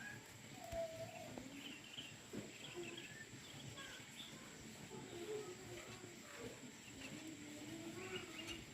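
Faint outdoor ambience with small birds chirping on and off, and faint wavering calls in the background.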